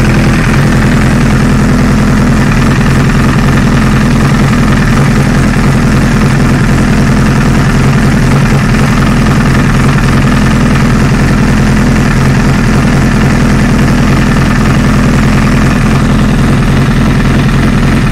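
2008 Honda CBR1000RR inline-four engine idling steadily with a clac-clac rattle. The owner found nothing broken inside the engine and suspects the clutch basket.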